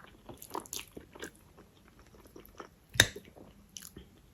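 Close-up mukbang eating sounds: biting and chewing with short crunchy crackles, and one loud sharp crack about three seconds in.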